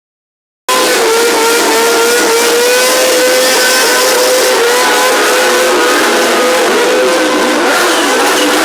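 Several large-displacement motorcycle engines running loudly together, their pitches drifting up and down as they are revved. The sound cuts in abruptly just under a second in.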